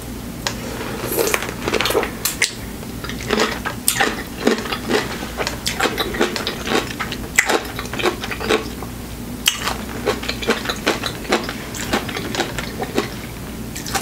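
Close-up eating sounds of a whole dill pickle topped with whipped cream being bitten and chewed: a dense run of short, irregular crunches and mouth clicks.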